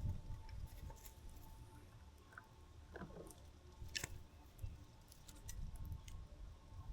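Faint sounds at a backyard bird feeder: scattered small clicks and taps over a low rumble. There is a short falling note about three seconds in and a sharper click about a second later.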